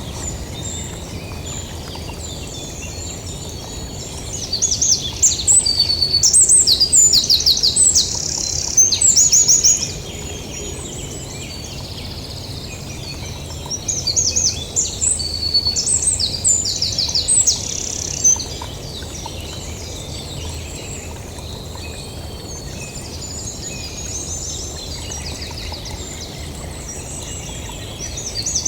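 A songbird singing long, varied phrases of high whistles, trills and rapidly repeated notes, loudest in two stretches of several seconds each, over a steady low background rumble.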